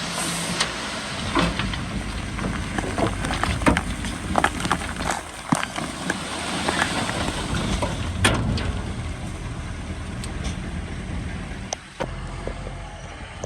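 Diesel engine of heavy earthmoving machinery running steadily, with irregular clanks and knocks from the work. The knocks thin out over the last few seconds.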